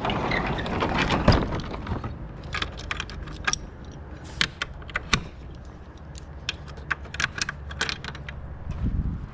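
4-wheeler engine running with a steady low rumble, overlaid by frequent sharp clicks and rattles that are densest and loudest in the first two seconds.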